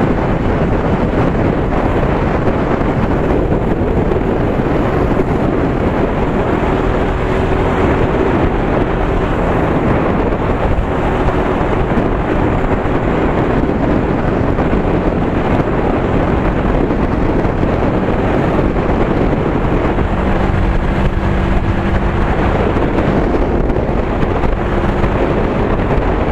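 Heavy wind rushing over the microphone of a moving bike, with road and vehicle noise underneath, loud and unbroken; a faint steady tone rises out of it for a few seconds about twenty seconds in.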